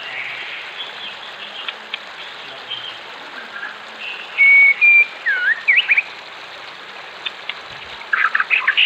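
Wild birds singing over the steady rush of running water: a few clear whistled notes and sliding calls about halfway through, then a quick run of chirps near the end.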